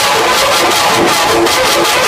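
Loud music blasting from large outdoor sound-system speaker stacks, with a steady quick beat and short repeated melody notes.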